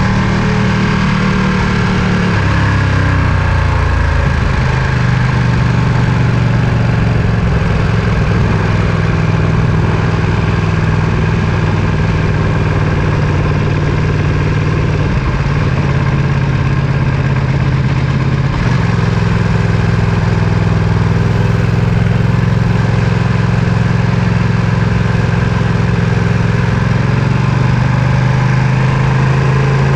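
Ducati Panigale V2's twin-cylinder engine running at low, fairly steady revs, its note shifting slightly a few times.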